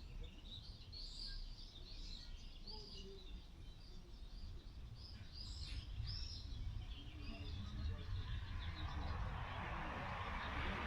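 Small birds chirping over and over, with a low rumble of wind underneath. Near the end a rushing noise builds up.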